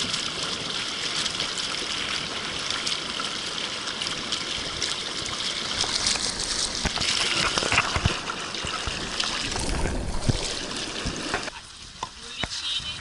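Steady hiss of rushing, splashing water, which cuts off abruptly about eleven and a half seconds in.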